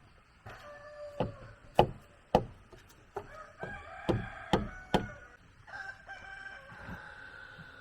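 Chickens clucking and a rooster crowing, ending in one long held crow, with about six sharp knocks between the calls in the first five seconds.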